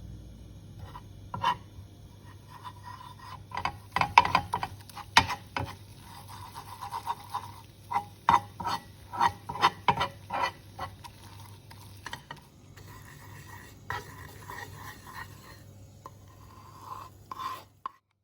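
A spoon stirring in a cooking pot, with irregular scrapes and light clinks against the metal, busiest in the first half and cutting off abruptly near the end.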